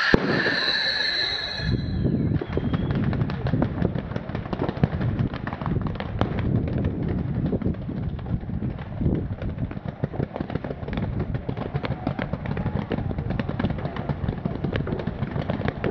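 Fireworks going off in a dense, rapid string of bangs and crackles. In the first two seconds a high, steady sound comes before them.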